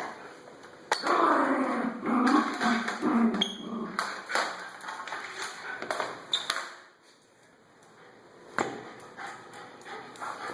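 Schnauzer growling in rough play, starting suddenly about a second in and running, rising and falling, for about six seconds before it stops, followed by a few sharp knocks.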